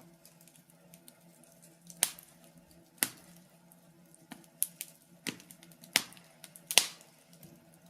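Wood fire crackling in a fireplace: sharp, irregular pops and snaps, roughly one or two a second, over a faint steady hum.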